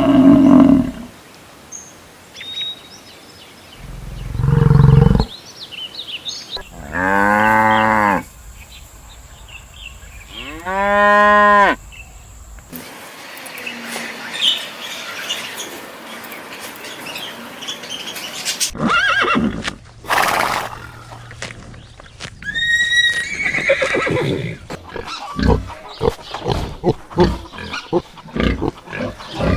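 A series of different animal calls, one after another. It includes a short low call, then two long pitched calls that rise and fall, then a run of shorter calls in the second half.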